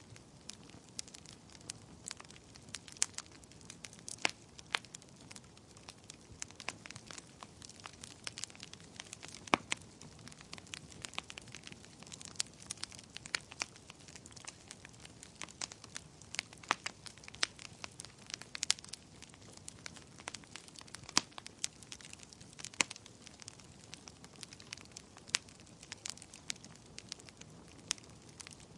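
Wood bonfire crackling: frequent, irregular sharp pops and snaps over a soft steady hiss of burning.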